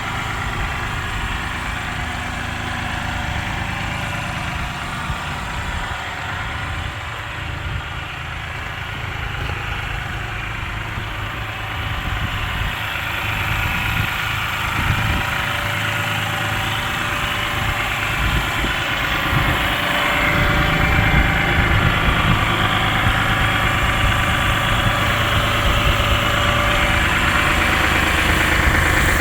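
Case IH Farmall 55A tractor's diesel engine idling steadily, getting gradually louder over the second half.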